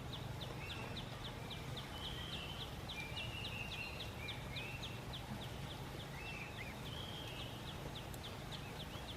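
Forest ambience: a high chirp repeating steadily about four times a second, with a few other short, higher warbling animal calls over it and a low, even background hum.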